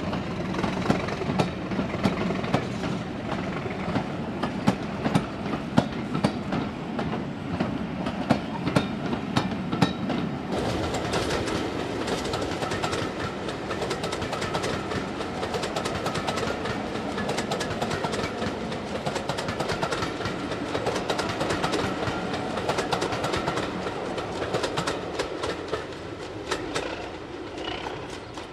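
Diesel-hauled train passing, its wheels clicking rapidly over the rail joints above a steady rumble, easing off near the end.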